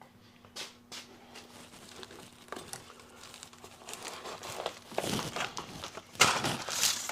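Rustling and crinkling of a model kit box and its packaging being handled, with scattered small clicks and knocks, growing louder near the end.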